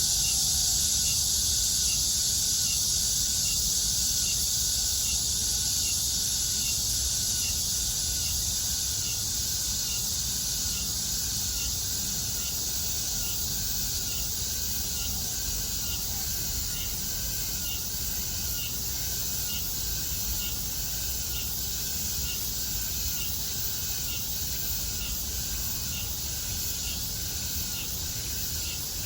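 Summer chorus of cicadas: a steady, high-pitched drone, with a rhythmic call pulsing about three times every two seconds over it. The whole chorus eases off slowly.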